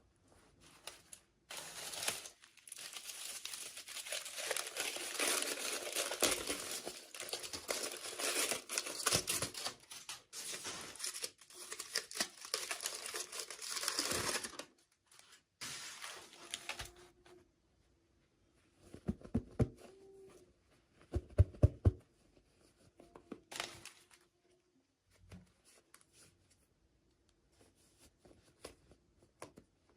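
Toy packaging being torn open and crinkled for about thirteen seconds. Then come a few bursts of clicks and light knocks as pieces are handled, fainter near the end.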